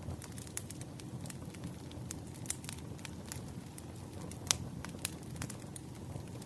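Wood fire crackling: a steady low rumble of burning logs with irregular sharp pops and snaps, one louder pop about halfway through.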